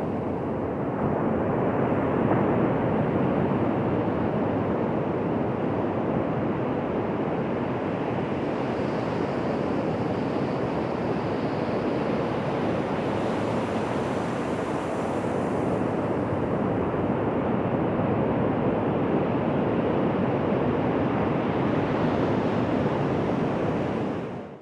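Ocean surf: waves washing onto a beach in a steady, continuous rush with gentle swells. It cuts off abruptly at the very end.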